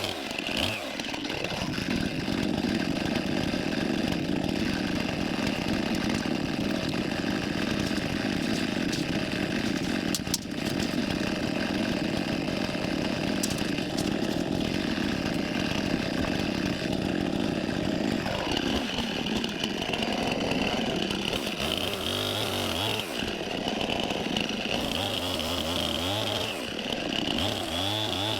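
Gas chainsaw running steadily while bucking spruce and fir logs into firewood lengths, with a higher whine coming in about two thirds of the way through.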